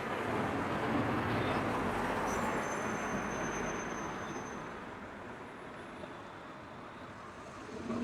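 Road traffic noise: a rushing sound that swells over the first couple of seconds and fades away in the second half, as of a vehicle passing. A faint thin high whistle sounds briefly about two and a half seconds in.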